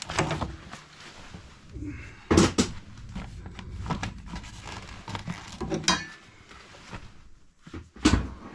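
Metal clinks and knocks from parts of an ACR Woodpecker wood-burning stove being handled during a sweep, with a louder knock a couple of seconds in and another near the end.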